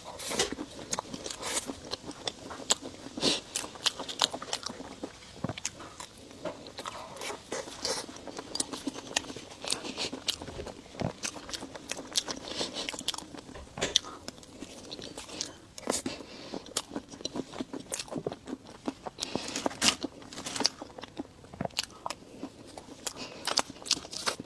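Close-miked eating sounds: a dessert being bitten and chewed, with many irregular sharp clicks and crunches throughout.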